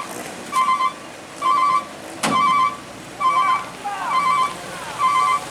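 Reversing alarm beeping at an even pace, a single steady tone about once a second. A sharp knock comes a little over two seconds in.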